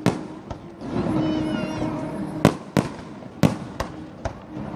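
Fireworks display: about six sharp bangs of bursting shells at uneven intervals, with a brief wavering high whistle about a second in.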